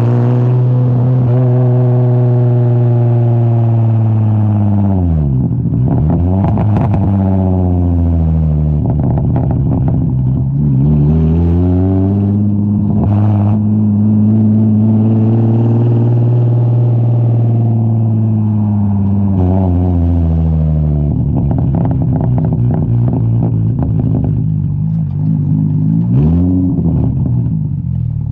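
Infiniti G35's 3.5-litre V6 running through a straight-piped exhaust with no mufflers. The note holds steady for long stretches, with the revs dropping and climbing back several times and some crackling around the dips.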